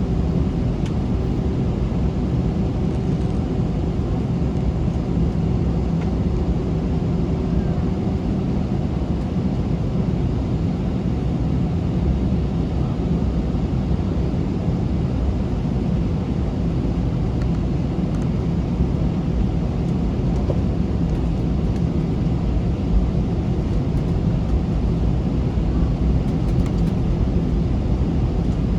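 Steady jet engine and airframe noise heard inside an Airbus A321 cabin, a low even rumble with a faint steady tone that stops about a third of the way in.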